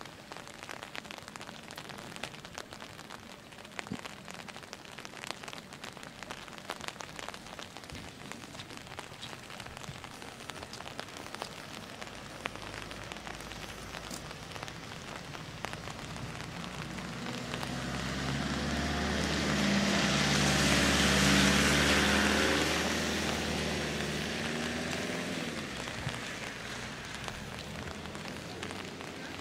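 Steady rain pattering with scattered drip ticks. A little past the middle an engine swells in and fades out again as it goes by.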